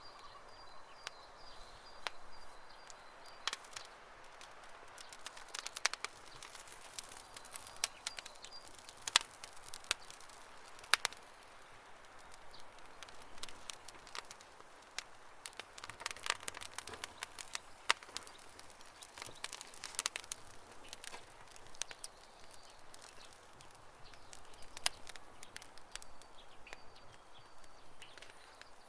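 Wood campfire crackling: irregular sharp pops and snaps, some much louder than others, over a soft hiss. A faint high chirping comes and goes in the background a few times.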